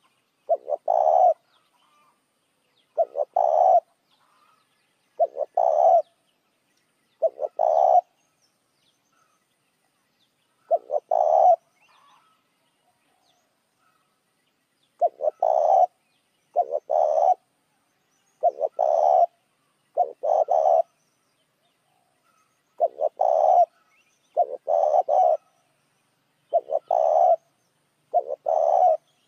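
Spotted dove cooing, a lure call. About thirteen short coo phrases, each under a second, repeat every couple of seconds, with a few longer pauses in between.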